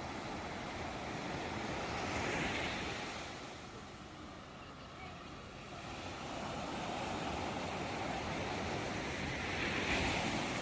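Ocean surf: waves washing in as a steady rush, swelling twice, about two seconds in and again near the end.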